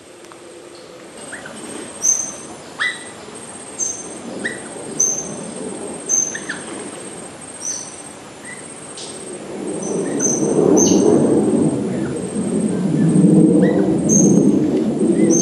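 A bird calling repeatedly in short, sharp notes, roughly one or two a second, over a high, steady pulsing like an insect's trill. From about the middle on, a louder rushing noise rises underneath and becomes the loudest sound.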